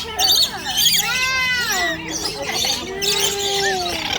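Many lorikeets chattering in an aviary: shrill, quick chirps and squawks overlapping, with a longer drawn-out call about a second in.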